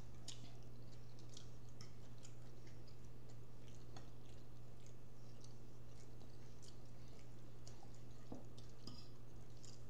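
People chewing food, with scattered faint mouth clicks and light taps of a fork on a plate, over a steady low hum.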